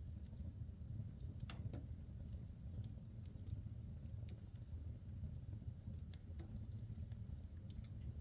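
Wood fire burning in a fireplace: scattered sharp crackles and pops over a low, steady rumble of the flames, with one pop about one and a half seconds in trailing off into a short falling tone.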